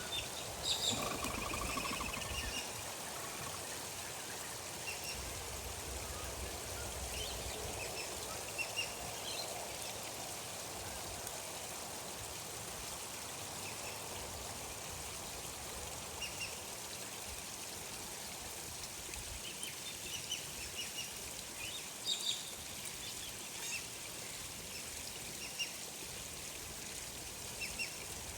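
Gentle, steady running water with short, high bird chirps scattered through it, a little louder about a second in and again about twenty-two seconds in.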